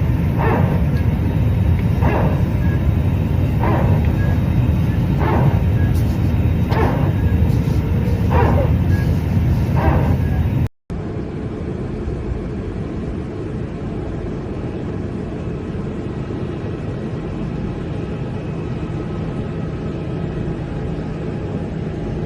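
Airliner cabin noise in flight: a loud, steady low rumble of engines and airflow, with a short noisy pulse repeating about every second and a half. After a cut about eleven seconds in, a quieter, steadier cabin drone.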